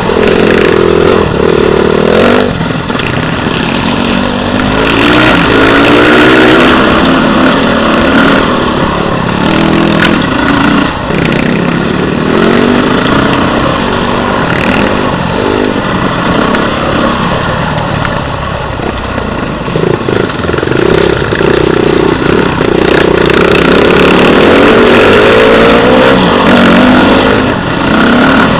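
Beta RR 450 enduro motorcycle's four-stroke single-cylinder engine working hard on a dirt trail, revving up and falling back again and again as the rider works the throttle, with a few sharp knocks from the bike over the rough ground.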